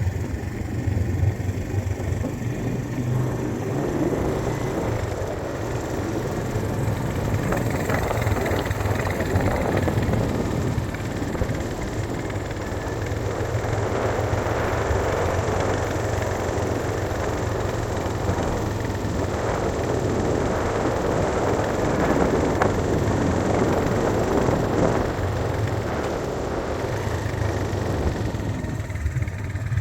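Road vehicle running steadily on the move: a constant low engine hum with rough, varying road and tyre noise.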